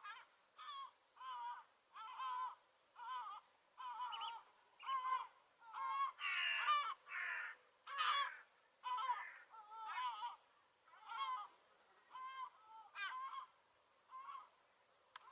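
Gull calling over and over: a long string of short, wavering calls, about one and a half a second, with a few louder, harsher calls near the middle.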